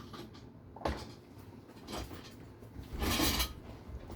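Hard plastic and metal RC car parts being handled and set down on a workbench: a sharp click a little under a second in, a few lighter knocks, and a short burst of scraping handling noise about three seconds in.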